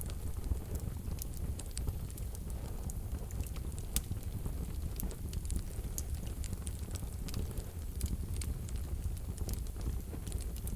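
Wood fire burning in a wood-burning stove: irregular sharp crackles and pops over a low, steady rumble of the flames, with one louder pop about four seconds in.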